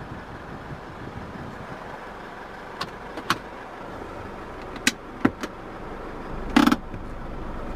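Isuzu D-Max 2.5-litre twin-turbo diesel idling steadily, heard from inside the cab, with a few sharp clicks and a short louder clunk about six and a half seconds in.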